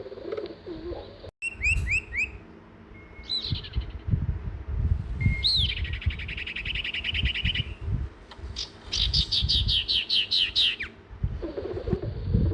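Songbird calling: sharp chirps, a buzzy trill and a quick run of falling notes, over a low, uneven rumble. A dove cooing is heard before this and again near the end.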